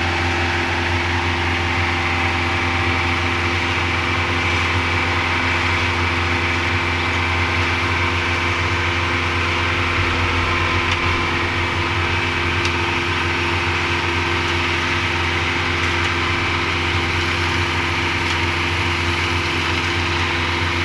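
Cement mixer machine's engine running steadily at constant speed.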